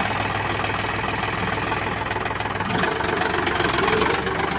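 Tractor engine idling steadily, freshly started.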